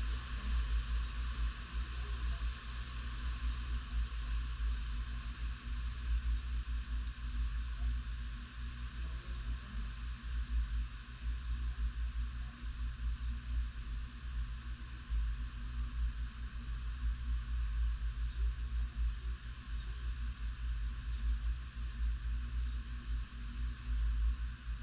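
Tropical-storm wind gusting against the microphone: a low, fluttering rumble that swells and eases over a steady hiss.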